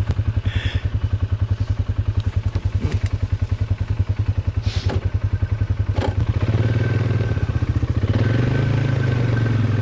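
ATV engine running with a fast, even putting beat, with a few short knocks, then held at higher, steadier revs from about six seconds in as the quad drives off the track into deep snow.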